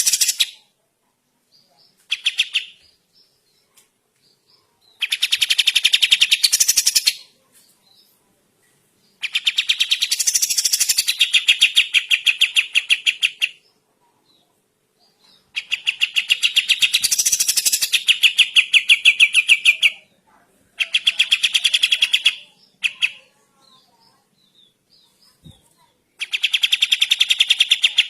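Pied triller (kapas tembak) singing: a run of rapid, even trills of closely spaced notes, each lasting one to four seconds, with short pauses between them.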